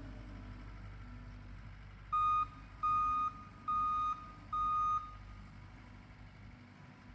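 A work machine's backup alarm beeping four times, a single high tone, as the machine reverses. Under it runs the steady low sound of its engine.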